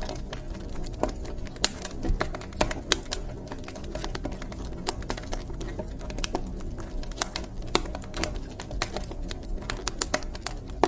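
Wood fire crackling in a fireplace: irregular sharp pops and snaps over a steady low rumble of the burning, with a few louder pops scattered through.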